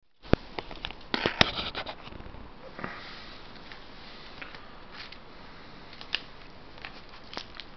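Scattered sharp clicks and rustling over a steady hiss in a small room, most of them bunched in the first two seconds.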